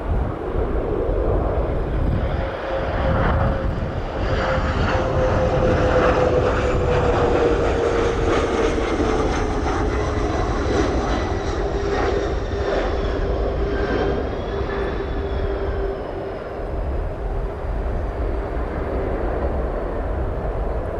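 Airplane engines passing the airfield fence, a steady engine tone and a higher whine both sliding slowly down in pitch as the aircraft goes by, over a constant rumble.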